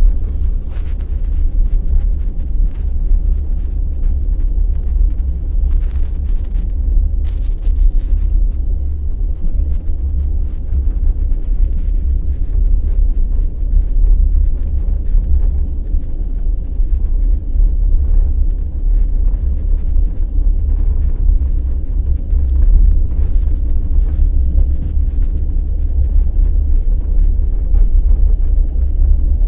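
Passenger express train running at speed: a steady, loud low rumble with scattered clicks and knocks of the wheels over the rails.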